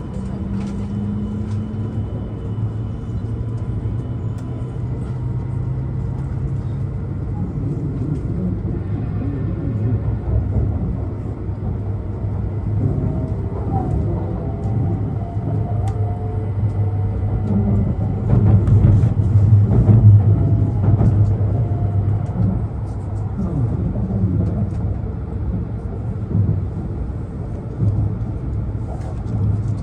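E2 series Shinkansen train running, heard from inside the car: a steady low rumble of running noise that swells louder about two-thirds of the way in, with faint rising whines in the middle as the train picks up speed after leaving the station.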